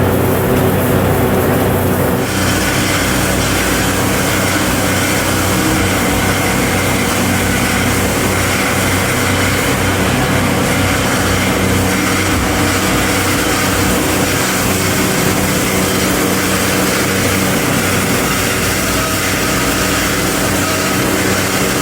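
Factory machinery running steadily: a continuous mechanical hum with several steady low tones, with a broad hiss joining about two seconds in.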